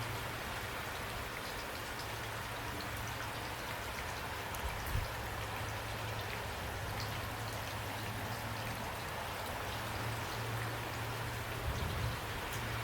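Steady rain: a dense, even hiss with scattered drop ticks and a low rumble underneath. A couple of soft low thumps come about five seconds in and again near the end.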